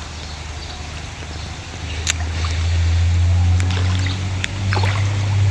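A motor or engine running with a steady low hum that grows louder about two seconds in, with a few sharp clicks and a faint background of water.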